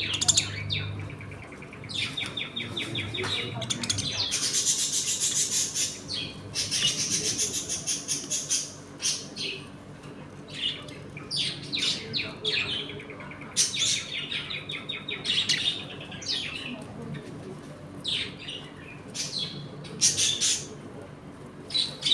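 A colony of budgerigars chattering, with many overlapping short chirps and fast warbling trills. A dense stretch of warbling comes a few seconds in.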